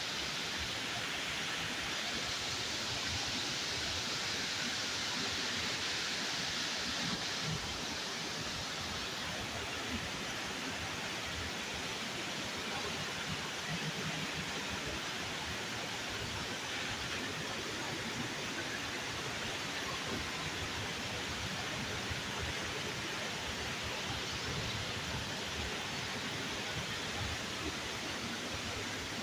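Steady rush of falling and splashing water, a little brighter and louder for the first several seconds.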